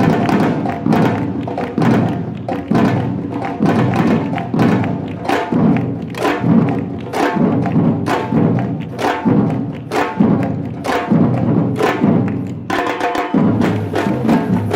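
Batucada percussion ensemble playing a steady, driving rhythm of drum strikes with sharp hand-percussion hits, with a brief break about thirteen seconds in before the drums come back in.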